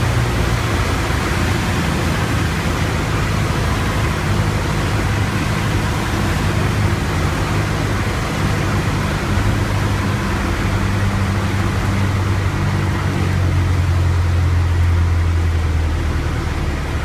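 Piper Tomahawk light aircraft's engine and propeller running with a steady drone over a broad rush of air noise; the drone's pitch settles slightly lower about ten seconds in.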